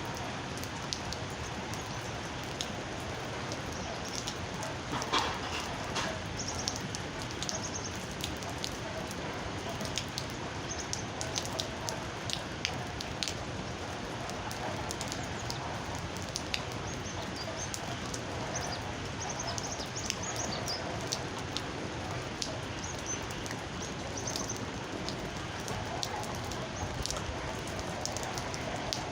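Steady rain falling, with scattered drips ticking through it and a few brief high bird chirps.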